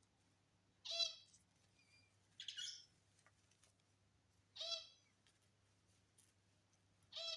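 Pet lovebird calling: three short, sharp chirps spaced a few seconds apart, with a harsher, scratchier call between the first two.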